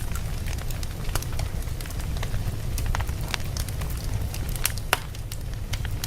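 Wood fire burning in a fireplace: a steady low rumble of flames with irregular sharp crackles and pops from the burning logs, one louder pop about five seconds in.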